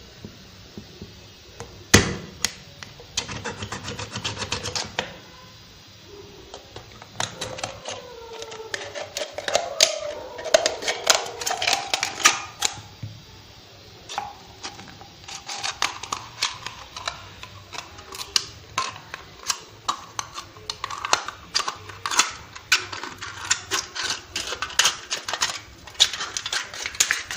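Scissors cutting open an empty aluminium drink can: a long run of sharp clicks and snips, with the thin metal crinkling and creaking for a few seconds near the middle.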